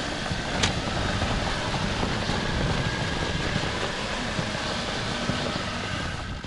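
Mitsubishi Pajero Mini's engine running under throttle while its wheels spin in deep snow: the little 4x4 is digging itself in and getting stuck.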